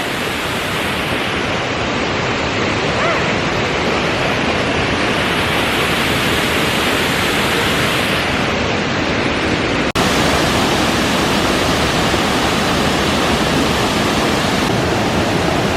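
Steady rushing roar of a waterfall, which gets a little louder after a break about ten seconds in.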